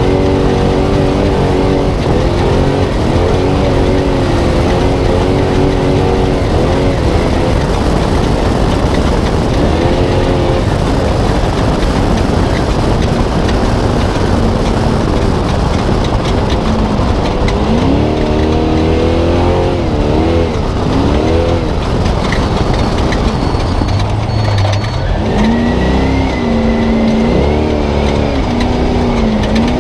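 Spec Trophy Truck V8 engine at race speed, heard from onboard. Its pitch repeatedly climbs and drops as the driver accelerates, lifts and shifts, over steady noise from the truck running across rough desert terrain.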